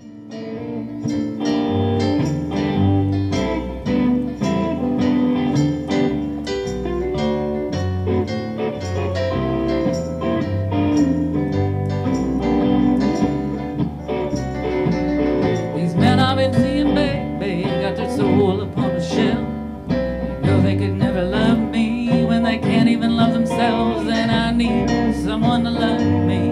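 Blues band playing a song, with guitar prominent over the rhythm section; from about the middle a wavering lead line comes in on top.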